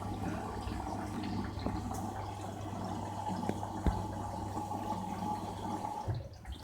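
LG FH0B8NDL22 direct-drive front-load washing machine in its rinse cycle: water running and sloshing in the drum over a steady low hum. It eases off near the end.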